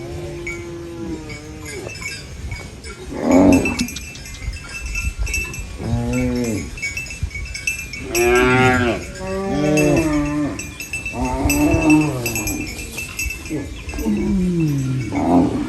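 Cows mooing, about seven calls in quick succession, each a second or so long, some sliding down in pitch.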